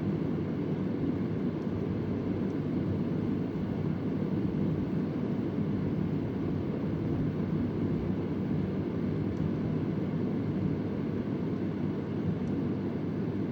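Vintage Convair oscillating fan running steadily: a low, even rush of air with a faint motor hum. A faint, irregular tick sounds now and then.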